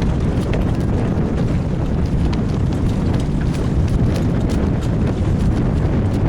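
Wind buffeting the microphone: a loud, steady rumble, with light ticks scattered through it.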